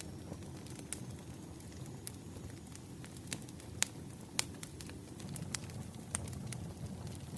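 Wood fire crackling: scattered sharp pops and snaps at irregular intervals over a steady low hiss of burning logs, with two louder pops a little before the middle.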